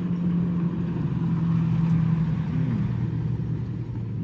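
A vehicle engine running with a steady low hum, its pitch dropping about two and a half seconds in.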